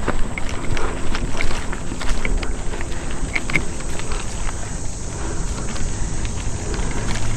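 Mountain bike ridden over a rough, rocky dirt trail: a steady low rumble with scattered rattles and clicks from the bike.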